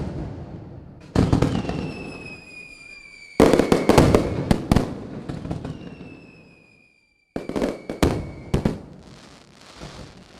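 Aerial fireworks going off in three volleys, each a sudden loud bang followed by a run of sharp cracks that fade away, with a high whistle falling slowly in pitch.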